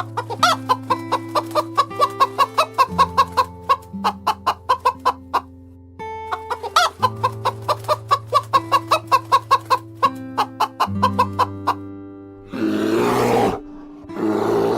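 Hen clucking in two long runs of quick clucks, about five a second, over soft background music with held notes. Near the end come two rough, noisy animal calls.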